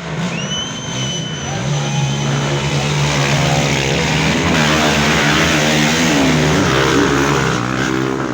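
Dirt bike engines running and revving, their pitch rising and falling, over a steady noisy haze. A high thin steady tone sounds over the first few seconds.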